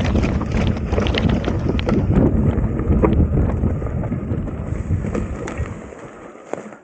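Mountain bike riding down a rough dirt trail: tyres rumbling over ground and stones, with the bike rattling and wind buffeting the microphone. It dies down over the last couple of seconds as the bike slows.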